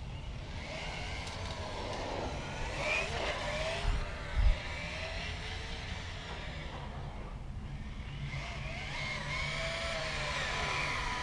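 Axial Yeti Score Trophy Truck RC car driving, its electric motor whine rising and falling in pitch as it speeds up and slows, over a steady rumble of tyres and drivetrain. Two short thumps about four seconds in.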